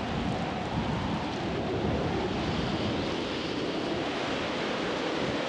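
Hurricane-force wind blowing hard and steadily: a dense, unbroken rush of noise.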